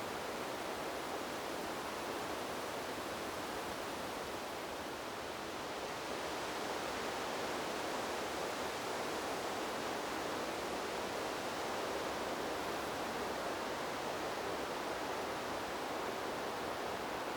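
Wind blowing through trees: a steady rushing noise that eases slightly about five seconds in, then swells back a little louder.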